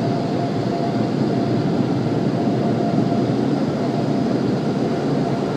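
Automatic car wash air-dryer blowers rushing steadily and loudly, heard from inside the car.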